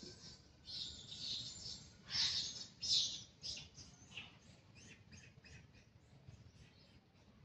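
Wild birds calling in the surrounding woodland: loud, hissy, high-pitched calls through the first three seconds or so, then a run of shorter, fainter chirps, about three a second, that fade away.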